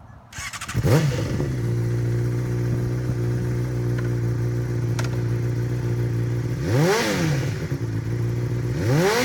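Honda CBR600RR inline-four with a Two Brothers Silver Series aftermarket exhaust starting up, catching about a second in and then idling steadily. The throttle is blipped twice, with a quick rise and fall in revs about seven seconds in and again near the end.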